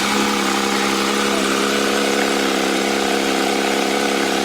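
Porsche 992 GT3 RS's 4.0-litre naturally aspirated flat-six idling steadily at a constant, unchanging pitch.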